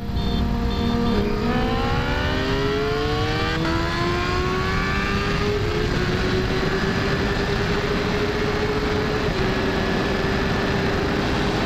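Suzuki GSX-R1000 inline-four revving hard under full-throttle acceleration. The pitch climbs, dips at an upshift about a third of the way in and again about halfway, then holds nearly steady at speed, over heavy wind rush on the microphone.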